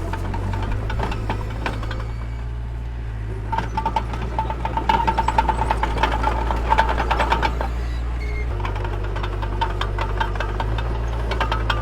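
Mini bulldozer's diesel engine running steadily at work, its note shifting slightly about a second in and again past eight seconds, with rapid clanking and rattling that is busiest in the middle.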